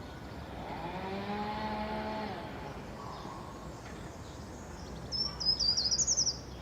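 A songbird singing a quick run of high, zig-zagging chirps near the end, over steady outdoor background noise. Earlier, a drawn-out pitched sound holds for about two seconds.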